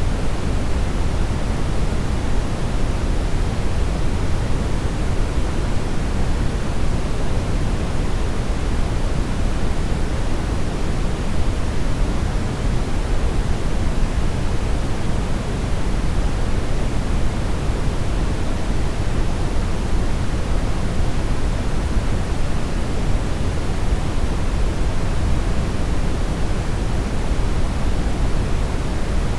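Brown noise: a steady, even rumble of random noise weighted heavily toward the low end, with no change or events.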